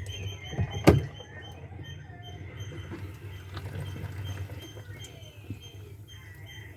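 Plastic washing-machine parts being handled: a sharp click about a second in, then faint light knocks and scrapes over a low steady hum.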